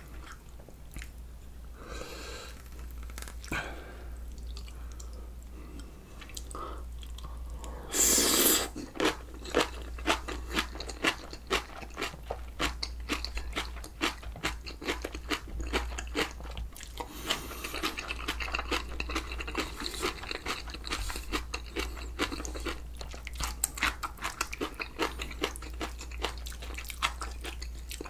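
Close-miked chewing of crunchy raw vegetables, such as spicy kimchi, whole onion and green chili, in a mouth full of food. It is quieter at first; about eight seconds in comes one loud bite, followed by rapid, steady crunching.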